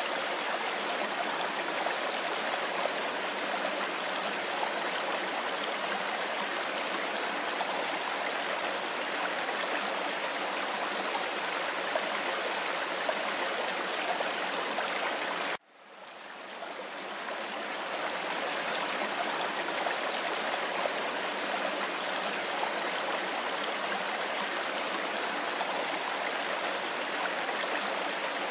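Mountain river water rushing steadily over stones. About halfway through, the sound cuts out abruptly and then fades back in over a couple of seconds.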